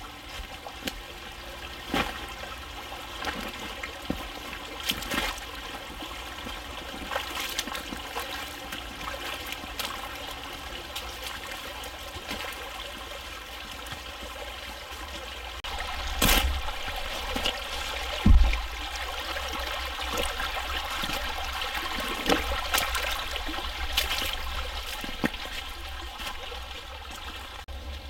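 Shallow forest creek rushing and trickling over stones, with scattered footsteps and knocks as hikers walk along the creek. A low thump about two-thirds of the way through is the loudest sound.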